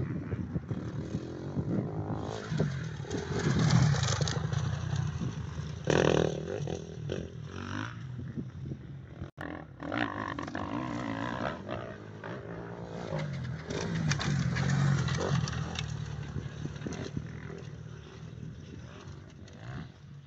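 Dirt bike engines running and revving, swelling louder about four seconds in and again near the middle of the second half.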